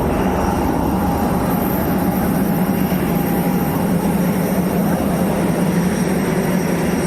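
Steady, loud engine drone with a constant low hum and no change in pitch.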